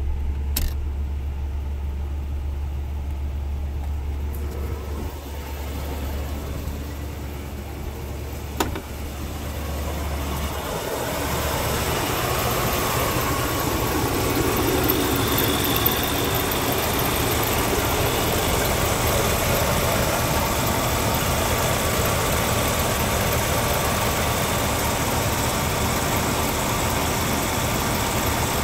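A 1979 Buick Electra Park Avenue's V8 engine idling steadily after a cold start. For about the first ten seconds it is a muffled low drone heard from inside the cabin; then it turns louder and fuller, heard at the open engine bay. Two brief sharp clicks come in the first part.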